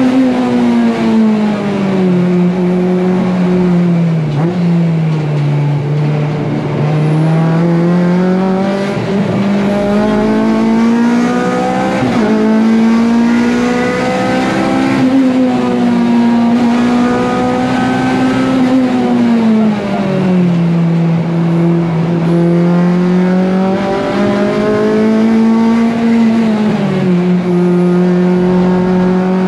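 Honda K24 2.4-litre four-cylinder engine of a stripped-out Civic EG, heard loud from inside the cabin on a fast lap. Its pitch climbs under acceleration and falls back for braking and corners, several times over.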